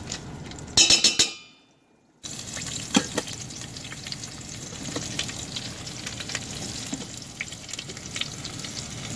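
Pork chops frying with garlic in hot ghee in an Instant Pot: a steady sizzle with scattered small pops. A loud burst of sizzle about a second in is followed by about a second of near silence, and then the sizzle resumes.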